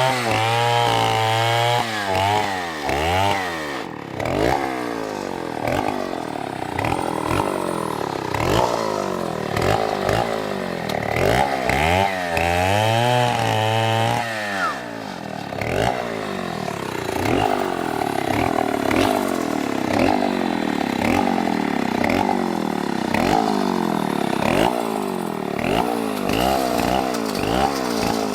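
STIHL chainsaw's two-stroke engine running while cutting wood, its pitch repeatedly rising and falling as the saw revs and loads in the cut.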